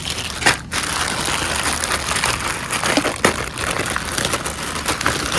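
Packaging being handled during unboxing: continuous crinkling and rustling, with a sharp knock about half a second in and another about three seconds in.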